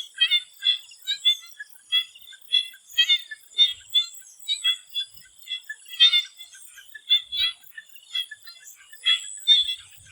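Swamp frogs calling in chorus: short, high-pitched calls overlapping irregularly, several a second, under a thin steady high tone.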